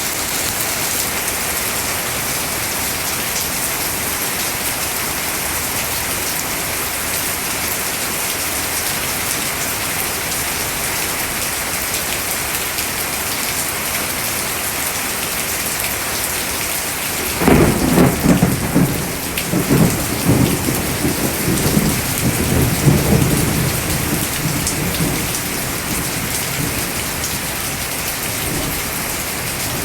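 Steady rain falling, with a roll of thunder that breaks in suddenly a little past halfway, rumbling low in several swells for about six seconds before fading back under the rain.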